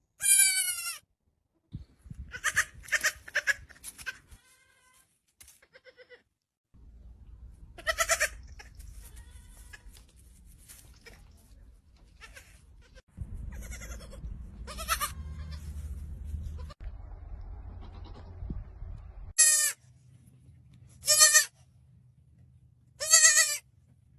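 Goats bleating: a string of short, loud, high-pitched bleats, with three evenly spaced ones near the end.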